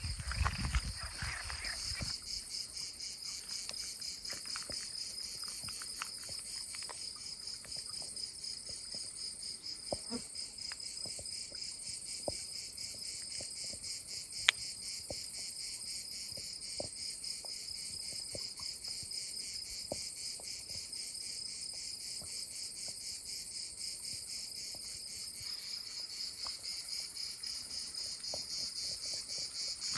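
Chirping insects in a dense, steady chorus: a high, fast-pulsing trill, with a few faint clicks. A lower rumble fades out in the first two seconds.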